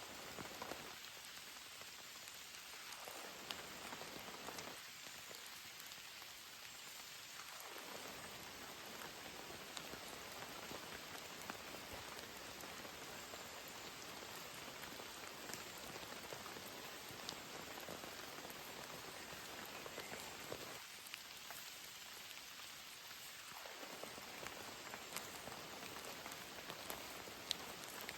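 Steady heavy rain falling, with scattered sharper hits of single drops.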